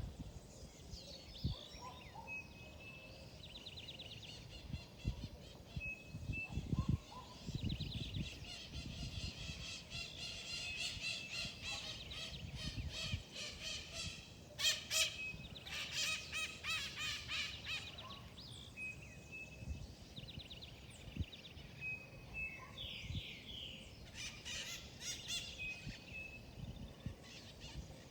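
Birds singing and calling: short high whistled notes repeated every few seconds, with bursts of rapid chirping trills, busiest in the middle.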